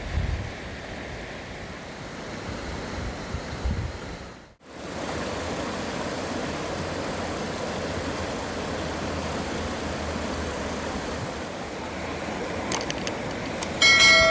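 Steady rushing outdoor noise like wind or running water, broken by a short dropout about four and a half seconds in. A bright ringing chime starts at the very end.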